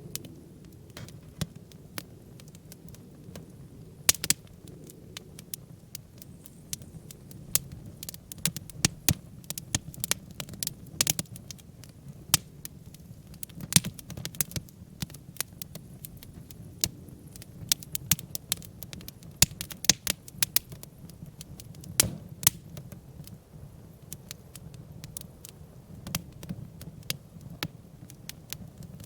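Log-cabin-stacked campfire burning: wood crackling with sharp, irregular pops, several a second at times, over a steady low rumble of flame.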